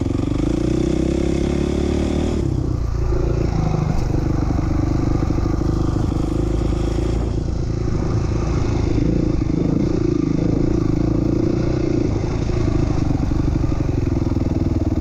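A 2007 450R motocross bike's single-cylinder four-stroke engine running hard while being ridden. Its pitch climbs through the first couple of seconds as the throttle opens, then rises and falls as the rider works the throttle.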